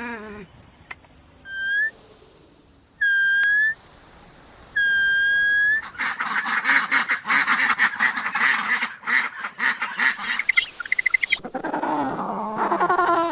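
Animal calls: three short high whistled calls, then a dense chorus of many overlapping calls, then repeated honking calls.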